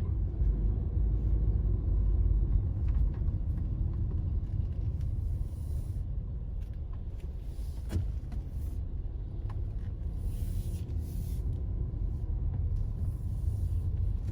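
Steady low road rumble of a moving car heard from inside the cabin, with a single short click about eight seconds in.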